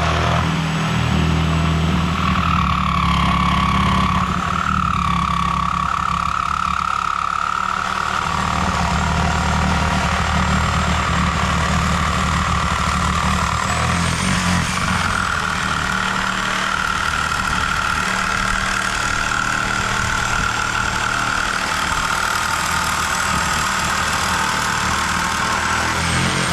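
Engine running steadily, with a steady high whine over the low engine sound.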